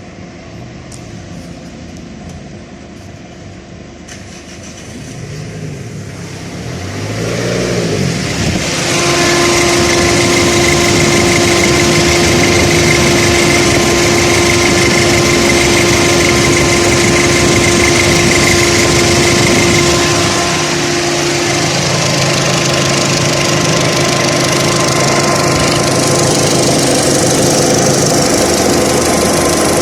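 Peugeot/Citroën engine running while the electric radiator cooling fan comes up to speed about seven seconds in, then runs on as a steady loud rush with a hum. A cooling fan that keeps running like this is the fault in question.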